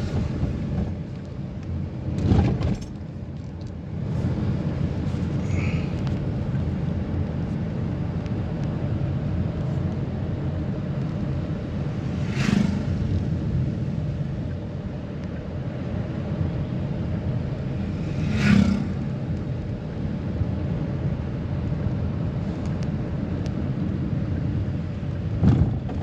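A vehicle driving on a road: steady engine and road rumble, with four brief louder thumps spread through it.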